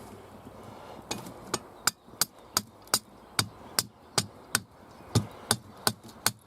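Hammering: sharp, evenly spaced blows about two and a half times a second, starting about a second in.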